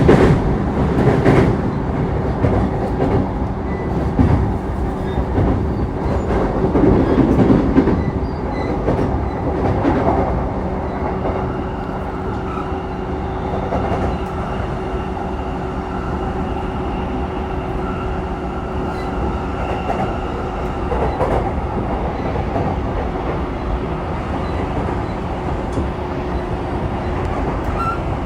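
Running noise inside an E233-3000 series electric commuter train at speed: wheels clacking over rail joints over a rumble and a steady hum. The sound is louder and rougher for the first ten seconds or so, then settles.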